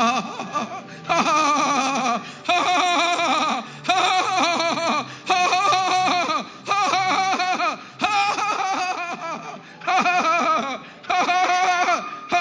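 A voice in short, wavering, pitched phrases about a second long with brief breaks between them, over a faint low steady hum.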